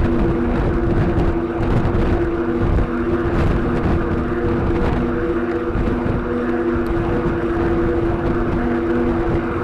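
Wind buffeting the microphone of a road bike ridden at speed, with road noise and a steady low drone underneath.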